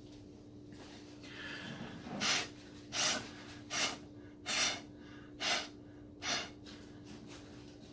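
Six short puffs of breath blown through a straw onto wet poured acrylic paint, about one every 0.8 seconds, starting about two seconds in. A faint steady hum runs underneath.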